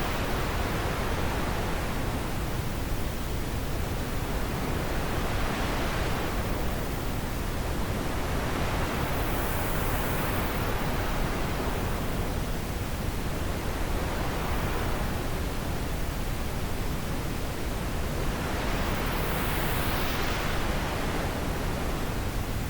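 Wind blowing steadily, with slow gusts that swell and fade every several seconds.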